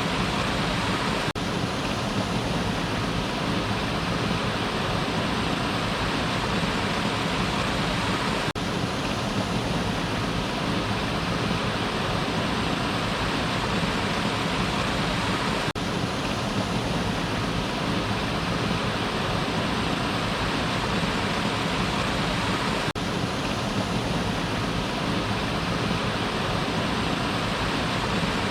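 Waterfall: water falling and rushing in a steady, unbroken roar, with tiny drops in level about every seven seconds.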